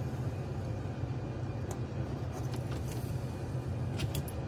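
Steady low background hum, with a few faint clicks of small locomotive parts being handled during assembly.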